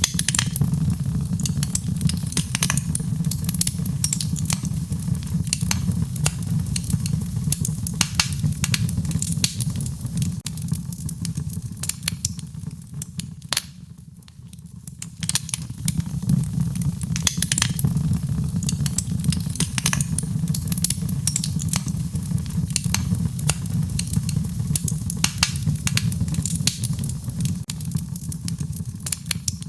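Wood fire in a fireplace crackling, with frequent sharp pops and snaps over a steady low rumble of the flames. The sound briefly fades about halfway through and then returns.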